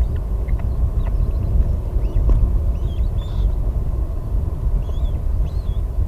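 Heavy, uneven low rumble on the microphone, with short, thin, high bird chirps and squeaks scattered through it, some rising and some falling.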